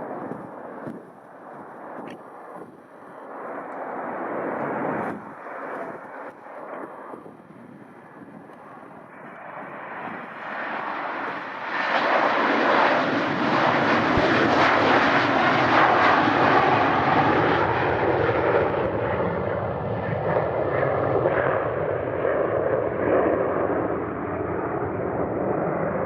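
Airliner's engines growing loud about ten seconds in, staying at full strength for several seconds and then slowly fading as the plane passes. Before the aircraft grows loud, wind gusts buffet the microphone.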